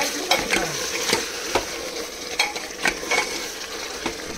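Mutton frying in oil and spices in a pot during the bhuna stage, sizzling steadily while it is stirred. The stirring utensil scrapes and knocks against the pot in irregular clicks.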